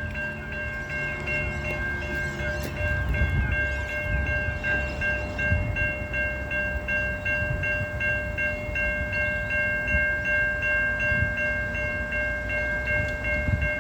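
Level-crossing warning bells ringing in a fast, steady repeating pattern over the low rumble of a passing train. The bells stop near the end, as the train clears the crossing.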